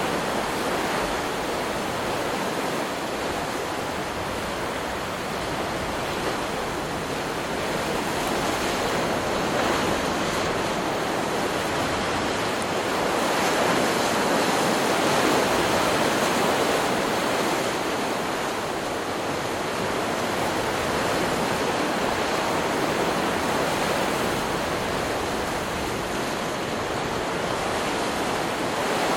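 Ocean surf washing onto a beach: a continuous rush of breaking waves that slowly swells and ebbs, loudest about halfway through.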